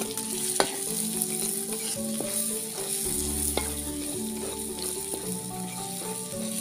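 Spice paste frying and sizzling in oil in a large metal wok as it is stirred with a metal spatula, with a few sharp clicks of the spatula against the pan. Background music plays underneath.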